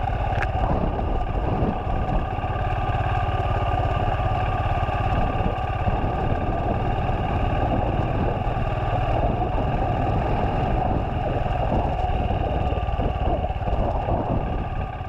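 Royal Enfield Himalayan single-cylinder motorcycle engine running steadily, dropping away near the end.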